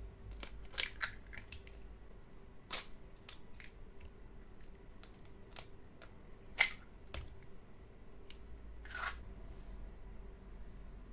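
Scattered light clicks and taps at uneven intervals, as of kitchen utensils and containers being handled, with a somewhat louder knock about a third of the way in and again past the middle. A faint steady hum lies under them.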